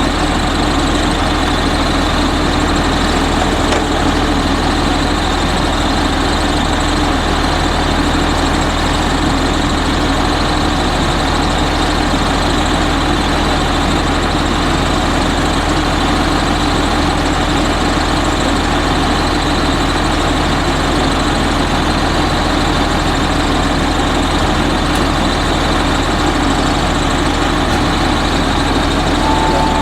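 Autocar front-load garbage truck's engine idling steadily, a constant low hum with no revving.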